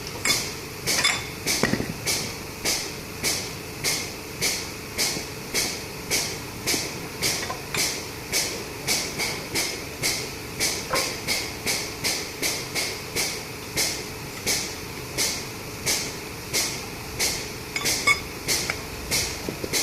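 Hammer blows on metal at a steady rhythm of about two strikes a second. This is the hammering done to drive a rubber bushing out of or into a Hino 500 truck's torque rod.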